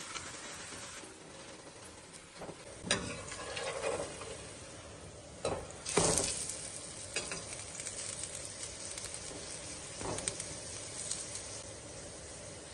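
Paratha frying on a flat steel tawa: a steady sizzle, broken by a few sharp knocks and scrapes, the loudest about six seconds in.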